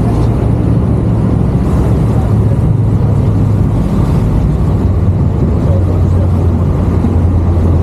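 Tour boat's engine running steadily under way: a loud, even low drone with a rushing noise over it.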